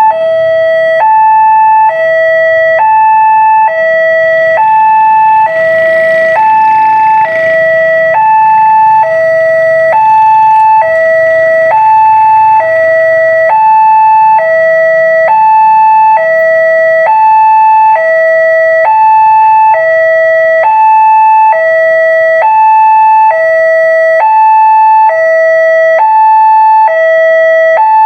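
Railway level-crossing warning alarm sounding: an electronic two-tone signal alternating evenly between a high and a low tone, about a second each, repeating steadily, the warning that a train is approaching.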